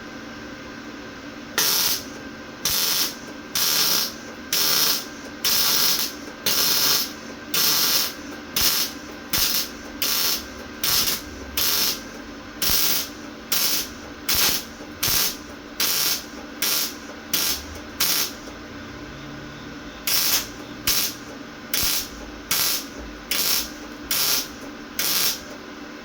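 Lincoln MIG welder arc crackling in about two dozen short stitch-weld bursts of under a second each, with a pause of a couple of seconds past the middle, laid on freshly cleaned steel and now welding much better. A steady hum runs underneath.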